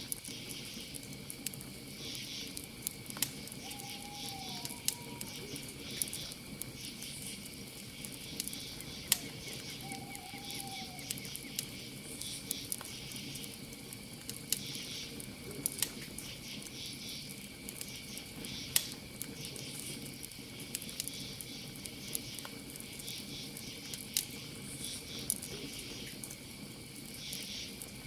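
Campfire crackling, with sharp pops every second or so, over a steady chorus of crickets and other night insects. Twice, about four and ten seconds in, a short call rises and falls.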